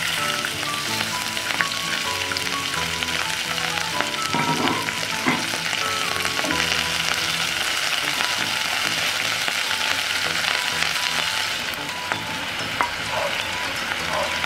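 Frogs sizzling as they fry in oil with sautéed ginger, garlic and onion in a nonstick pan, stirred now and then with a wooden spatula.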